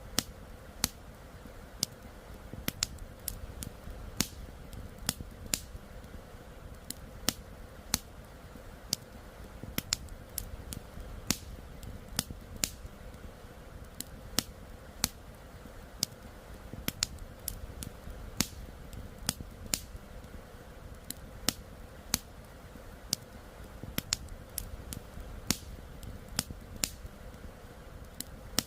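Crackling campfire: burning wood giving irregular sharp snaps and pops, roughly one or two a second, over a low steady rush of flowing river water.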